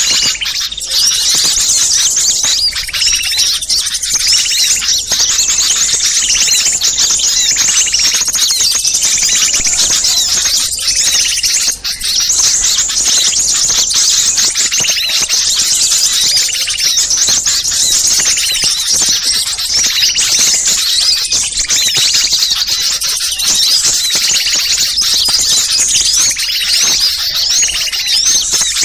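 A dense, continuous commotion of many small birds calling and chattering over one another in high, rapid chirps. It is a bird-lure track of small birds in a noisy flurry, used to draw wild small birds in.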